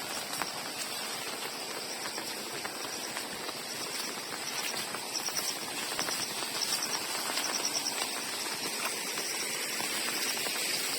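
Steady hiss of light drizzle falling outdoors, with short high chirps repeating from about four seconds in.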